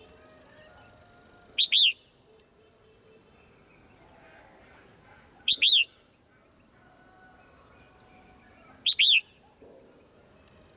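Swallow calling: a loud, short two-part chirp repeated three times, about every three and a half seconds, over a steady high hiss and faint twittering.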